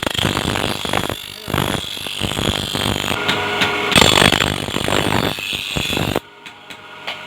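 Electric grinder running against the workpiece, its load and pitch wavering as it is pressed on and eased off; it cuts off suddenly about six seconds in.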